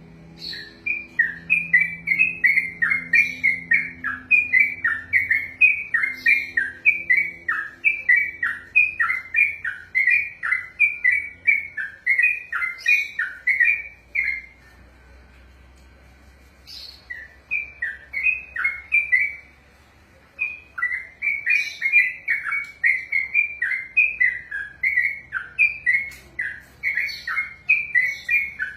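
Yellow-vented bulbul (trucukan) singing its long rolling song: a fast run of repeated chirping notes, about three a second. It breaks off about halfway through, gives a short burst, pauses briefly and starts the run again.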